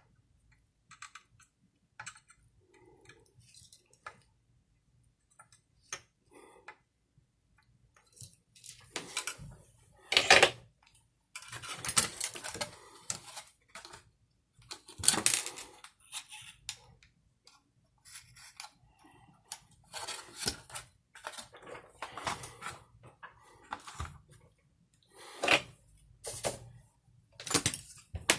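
Irregular clicks, taps and short clattering rattles of small hard parts and tools being handled. They are sparse at first and come thick and fast after about 8 seconds in.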